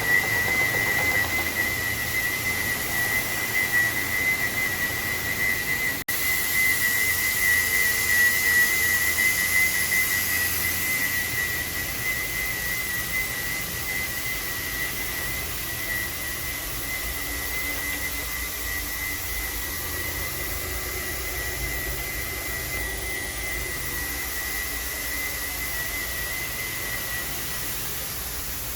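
A steady high-pitched whine holding one pitch over a hiss and a low hum, stopping shortly before the end.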